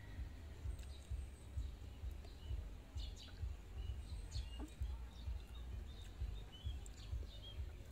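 Outdoor background: a low, uneven rumble with small birds chirping faintly in short notes, mostly in the second half, and a few soft clicks.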